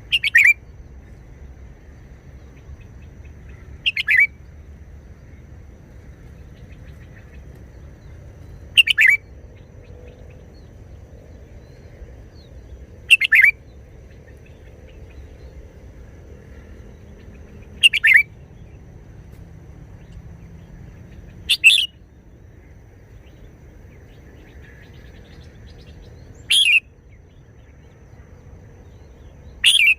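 Red-whiskered bulbul singing short, loud song phrases, each about half a second long, repeated eight times at intervals of four to five seconds.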